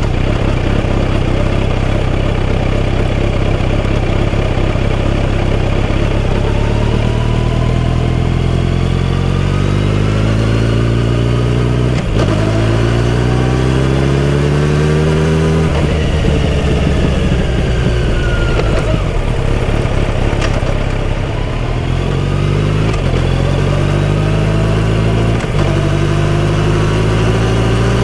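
Kawasaki Z900RS inline-four engine through a full-system exhaust, under way and accelerating: its pitch climbs in each gear and drops sharply at the gear changes, twice around the middle and several times quickly near the end.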